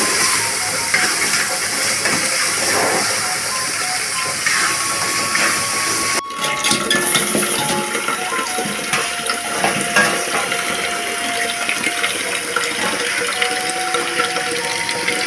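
Ground spice paste sizzling in a metal wok as it is stirred. After a sudden break about six seconds in, boiled goose meat and a little water are poured into a wok over a wood fire, with steady sizzling and light clatter of metal pans.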